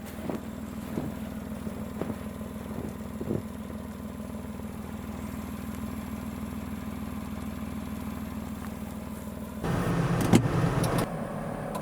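Suzuki Carry kei truck engine idling steadily, with a few light knocks early on. About ten seconds in it gets suddenly louder and rougher.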